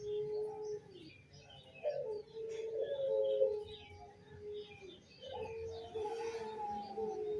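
Barbary doves cooing in long, drawn-out notes: one coo fading out about a second in, another from about two seconds to four and a half, and a third from about five seconds to the end. Short, high chirps from smaller birds run underneath.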